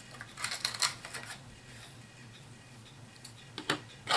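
Light plastic clicks and taps from HeroClix miniatures being handled and set down: a quick cluster about half a second to a second and a half in, a few single clicks later, and more near the end.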